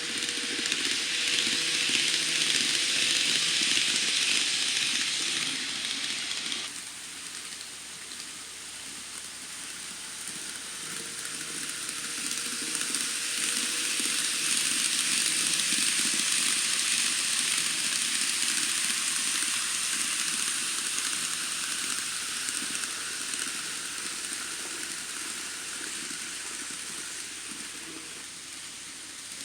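N scale model Shinkansen trains running on the track: a steady hiss of small metal wheels on rail with a faint motor whine. It drops away suddenly about seven seconds in, swells again in the middle and fades toward the end.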